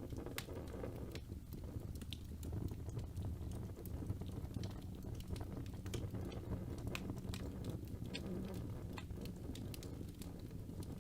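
Wood fire burning in a fireplace: a steady low rumble of flames with frequent sharp pops and crackles of burning logs.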